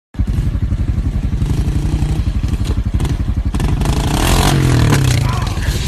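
A vehicle engine running hard with a fast, pulsing exhaust note, growing louder about four seconds in, with some clatter.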